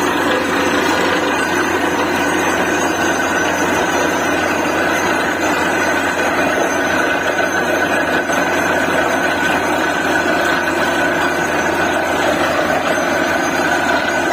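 Truck-mounted DTH borewell drilling rig running steadily: an even, loud mechanical noise with a constant high whine over a low hum.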